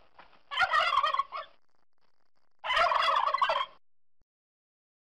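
Turkey gobbling: two loud gobbles, each about a second long and about two seconds apart.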